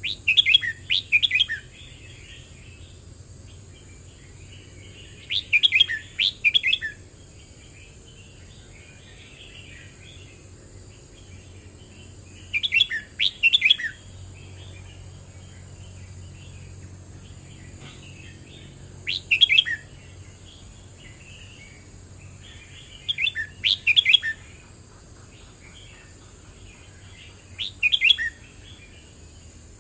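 Red-whiskered bulbul singing: six short, loud song phrases spaced a few seconds apart, with quieter chattering between them.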